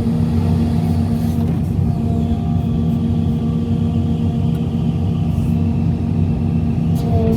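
Hitachi EX 350 LC excavator's diesel engine running steadily with a deep, even hum.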